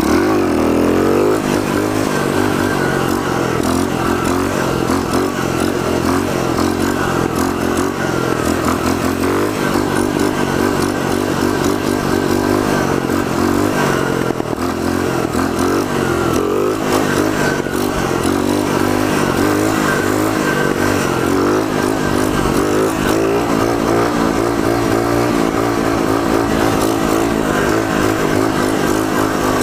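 Pit bike's small single-cylinder four-stroke engine running hard: it revs up sharply at the start, then is held at high revs with small rises and dips while the bike is ridden along in a long wheelie.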